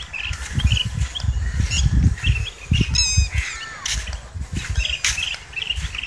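Birds calling repeatedly in short chirps, with a squawking call about halfway through, over an uneven low rumble that rises and falls in gusts.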